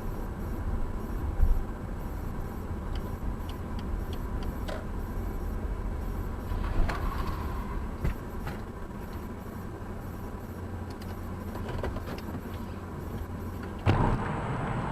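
A car driving, heard from inside: steady low engine and road rumble, with a few short knocks and clicks and a sharper knock near the end.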